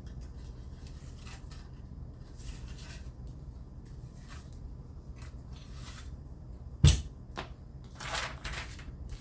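Handling sounds of a strop belt being fitted onto a belt sharpener: light scattered clicks, a single sharp knock about seven seconds in, then a brief rustle near the end.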